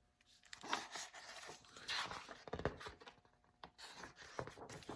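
Irregular paper rustling and scratching with a few light taps and clicks, as of a picture book being handled.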